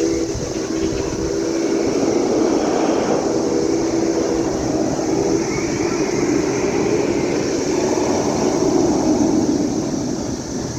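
Chorus of cicadas droning steadily and loudly, over a low, continuous rumble with a few steady low hums that fade out about halfway through.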